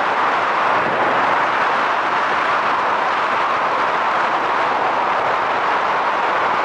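Steady rush of wind and road noise from a Yamaha SRX400 motorcycle on the move, heard through a helmet-mounted camera. The single-cylinder engine note is buried in an even, unbroken roar.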